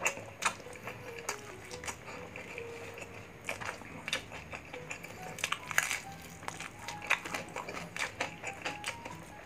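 Close-up chewing of crispy fried pork belly and rice, with many small sharp crunches and mouth clicks scattered through, over faint background music.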